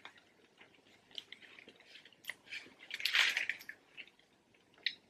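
Close-miked chewing of a cheeseburger, with small wet clicks and smacks of the mouth, and a louder rustle about three seconds in.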